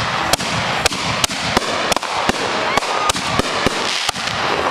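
Fireworks going off in quick, uneven succession: sharp bangs several times a second over a steady crackle.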